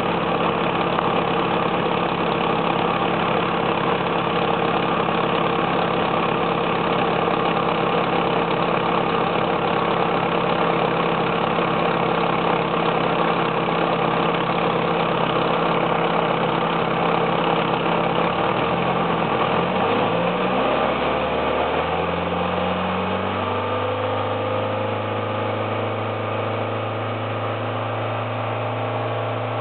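Car engine idling steadily, likely with the air-conditioning compressor running. A little past halfway its pitch glides and shifts, then settles into a new steady hum.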